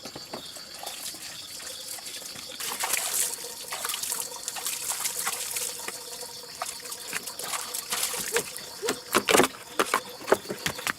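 Water trickling and splashing, loudest for a few seconds a little way in, with scattered light knocks.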